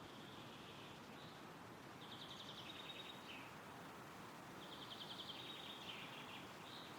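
Wind rustling through woodland trees as a steady soft hiss, with a small songbird singing over it: a few short notes near the start, then two longer phrases, each a rapid trill that drops to lower notes at its end.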